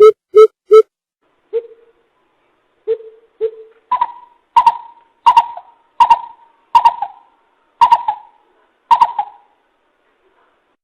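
Coucal calling: a fast run of deep, hollow booping notes that stops under a second in, then a few single low notes. From about four seconds comes a series of about eight higher, sharper notes, roughly two every three seconds.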